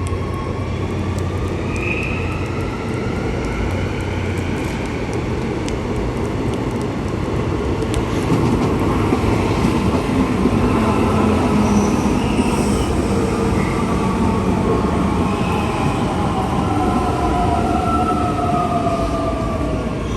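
A train running on the rails, with steady rail noise and whining tones that slowly rise and fall. It grows louder about eight seconds in.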